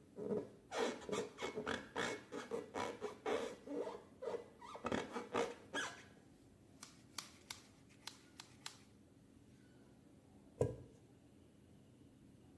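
Slime being squished and worked by hand: about six seconds of dense, sticky clicking and crackling, then a few scattered clicks and one louder thud a little past halfway.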